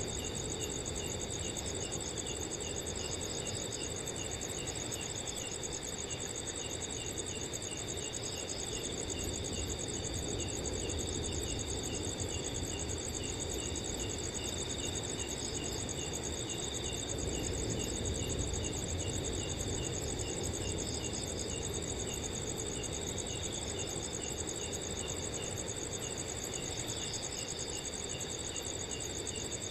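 A chorus of night crickets singing steadily at several pitches, one of them giving short chirps at an even pace, over a soft low rush of wind.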